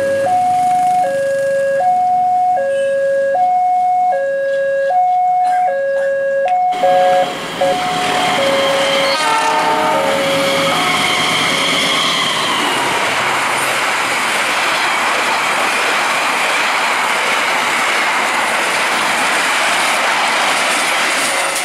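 Level-crossing warning alarm sounding as two alternating electronic tones, switching about every half second. About seven seconds in, the sound cuts to a diesel-hauled passenger train passing at speed, its wheels and coaches making a loud, steady rush, with a brief horn blast around nine seconds in.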